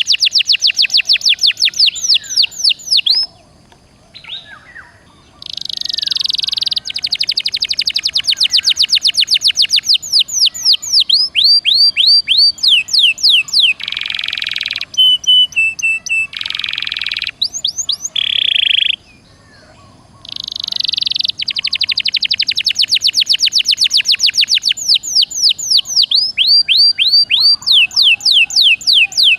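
Domestic canary singing hard: long, rapid trills of fast falling notes, broken by short buzzy phrases, with a brief pause about three seconds in and another about two-thirds of the way through.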